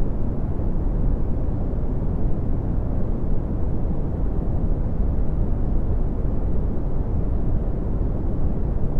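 Red (Brownian) noise: a steady, deep rushing hiss, loudest in the low end and falling away toward the treble, with no change throughout.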